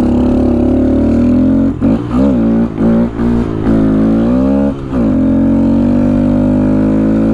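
2015 Honda Grom's 125 cc single-cylinder four-stroke engine running under way. The revs drop and pick up again several times about two to five seconds in, then hold steady.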